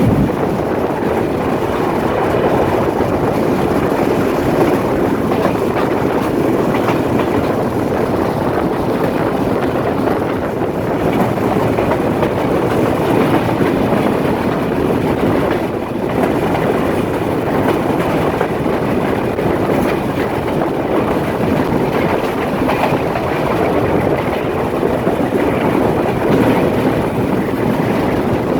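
Train running along the track: a steady rumble of wheels on rail.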